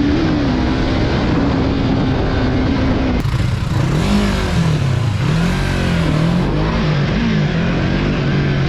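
Yamaha MT-03's parallel-twin engine heard from the rider's seat: the engine note drops as the throttle closes and holds steady for a couple of seconds. From about three seconds in, wind rush rises and the revs climb and fall several times.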